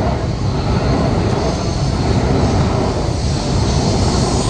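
Steady low rumble and noise of a vehicle in motion.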